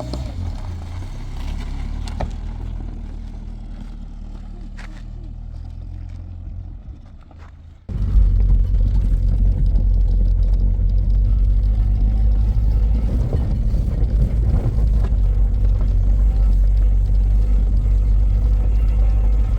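A vehicle's engine running, a steady low rumble that suddenly becomes much louder about eight seconds in and stays loud.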